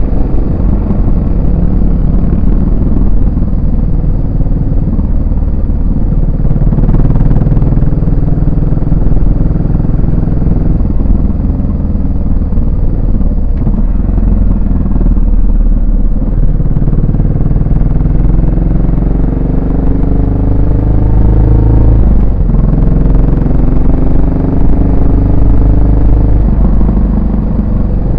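Yamaha SR400's air-cooled 399 cc single-cylinder four-stroke engine running under way, its exhaust note loud and thumping in low gear. In the second half it rises in pitch as the bike accelerates, breaking off and rising again at the gear changes.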